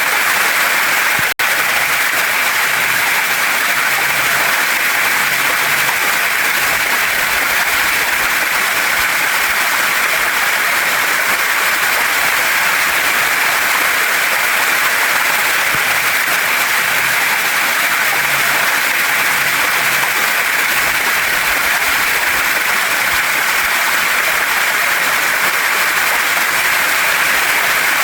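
Waterfall and stream water rushing steadily over rocks, a loud even hiss, with a momentary break in the sound about a second in.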